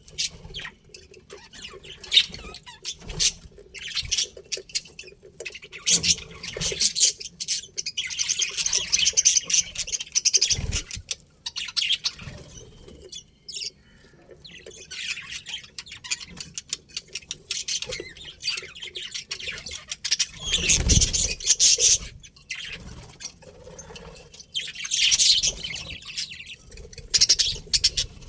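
Budgerigars chirping and chattering in fast, high-pitched runs that come in bursts with short quieter gaps. Two dull low thumps, about eleven and twenty-one seconds in.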